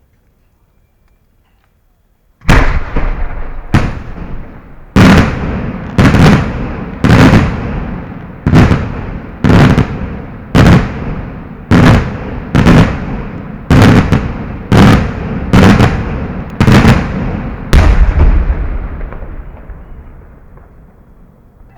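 Fireworks display heard from close range: after a short quiet, a run of about fifteen loud, sharp bangs at roughly one a second, each ringing out behind it, ending with a heavier bang and a long rumble that fades away.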